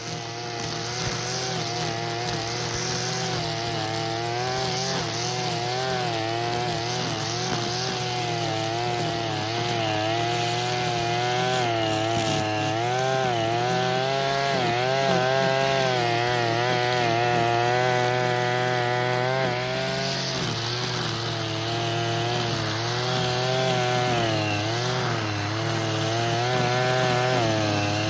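Engine brush cutter with a nylon cord head running and cutting weeds. The engine's pitch keeps rising and falling with the throttle and the load of the grass, with a brief drop about twenty seconds in.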